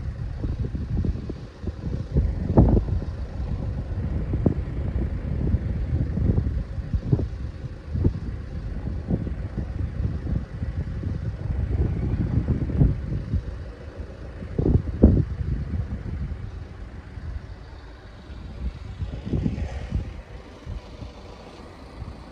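A train passing: a low rumble with irregular knocks, easing off over the last few seconds.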